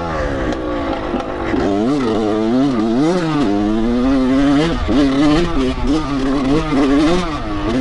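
Dirt bike engine under way, its revs rising and falling every second or so and steadier for a while near the end. The engine is bobbing in and out, which the rider suspects means the carburettor needs cleaning or rebuilding.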